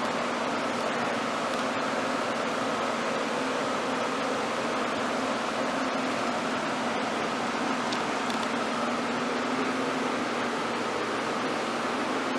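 Steady mechanical running noise: an even hiss with a constant low hum and a fainter higher tone, holding the same pitch and level throughout.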